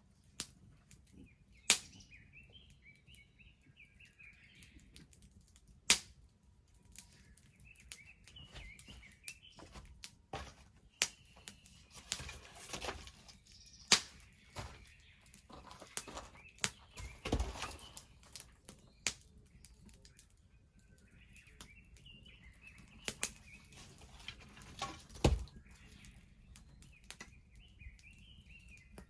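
Wood bonfire crackling, with sharp, irregular pops scattered throughout. Small birds chirp in the background now and then.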